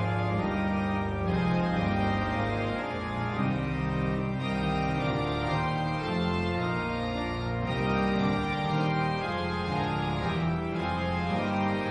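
Organ music in sustained chords that change about once a second.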